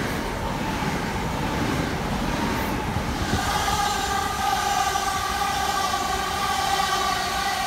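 Gatwick Express Class 387 electric multiple units moving through the station: wheels rumbling on the rails, joined about three seconds in by a steady multi-tone electric whine that holds to the end.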